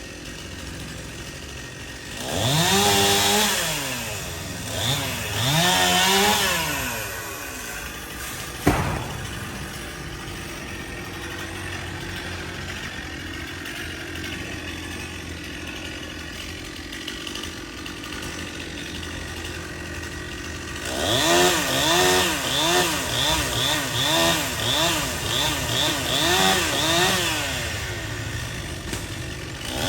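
Stihl two-stroke chainsaw idling, revved up and back down twice, then given a quick series of short throttle blips. A single sharp knock comes about nine seconds in.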